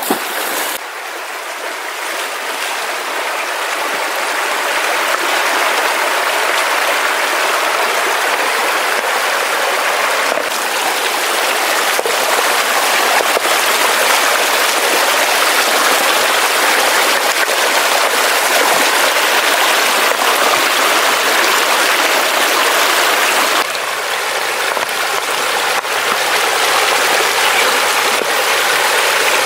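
Flowing water rushing steadily, growing louder over the first few seconds.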